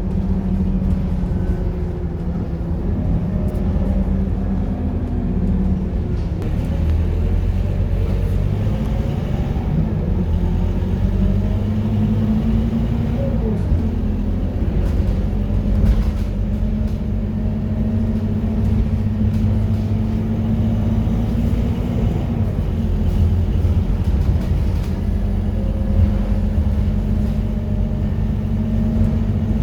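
Scania K230UB Euro 4 bus's five-cylinder diesel engine running under way: a steady low drone whose pitch rises and falls a few times as the bus speeds up and eases off.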